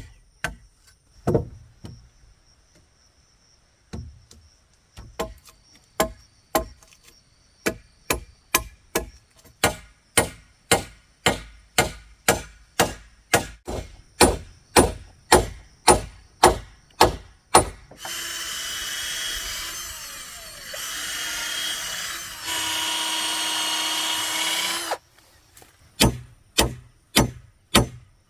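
Repeated strikes on wood, about two a second, as in hammering or chopping. Partway through, the strikes stop for a power tool that runs for about seven seconds, and they resume near the end.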